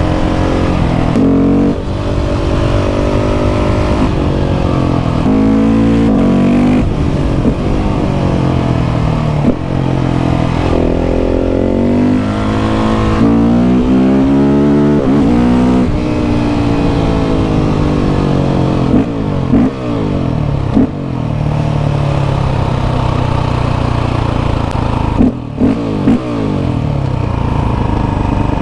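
KTM 690 SMC R's single-cylinder engine through a Leo Vince exhaust, ridden hard uphill: the engine note climbs and falls again and again as the bike accelerates and eases off through the bends. There are a few brief cuts in the sound in the second half as the throttle closes.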